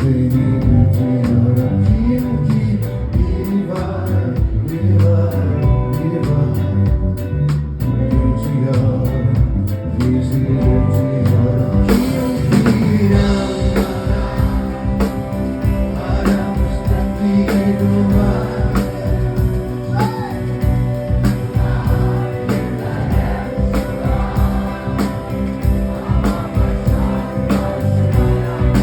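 Live rock band playing with singing over a steady drum beat; the sound grows brighter about twelve seconds in.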